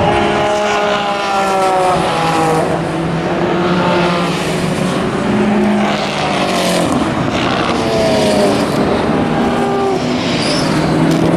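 Racing cars passing at speed one after another, their engine notes falling in pitch as each goes by.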